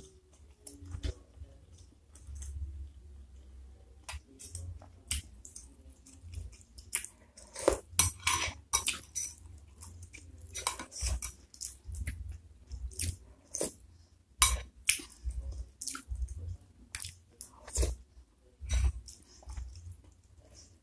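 Close-miked chewing and wet mouth sounds of someone eating beef meatballs in broth, in short irregular bites, with a metal spoon clinking against a ceramic bowl now and then.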